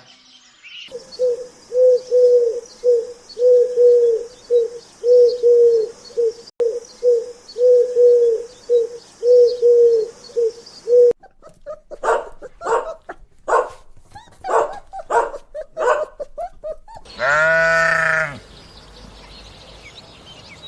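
A run of animal calls: short, low, pitched notes repeating about twice a second for some ten seconds, then a string of short sharp calls, then a goat bleating once, long and drawn out.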